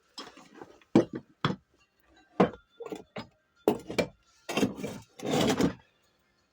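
Metal engine parts and hand tools being handled on a workbench: a run of sharp knocks and clinks, then a longer rattling scrape about five seconds in.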